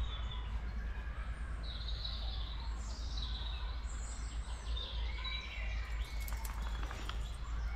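Songbirds singing and chirping in short high phrases, over a steady low rumble.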